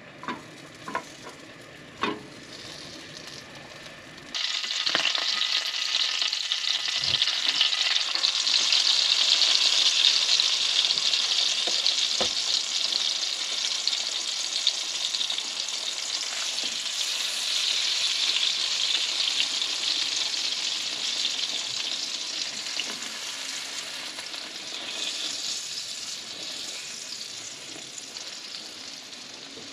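A few light clicks, then about four seconds in, food in butter starts sizzling loudly in a hot frying pan. The sizzle slowly dies down toward the end.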